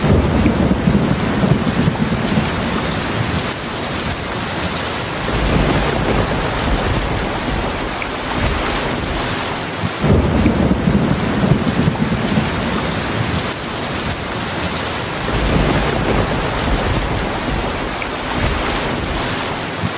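Heavy rain pouring steadily, with low rolling thunder rumbles: a strong one at the start, a weaker one about five seconds in, a strong one again about halfway through and a weaker one near the end.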